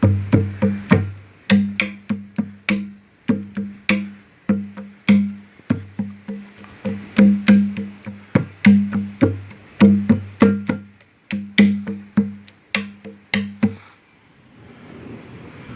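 Conga drum with a goat-skin head played by hand in a steady, busy rhythm, ringing open tones mixed with sharp slaps. The drumming stops about fourteen seconds in, leaving the steady hiss of heavy rain.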